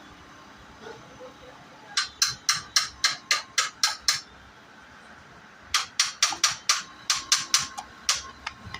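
Rapid sharp taps on a hard object, about four a second, in two runs with a short pause between them.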